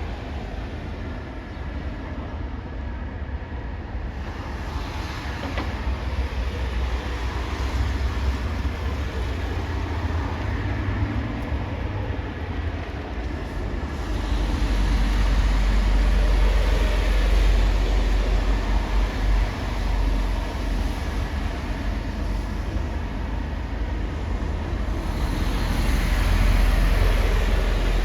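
Heavy vehicle traffic, a steady deep rumble that grows louder about halfway through and again near the end, as trucks pass close.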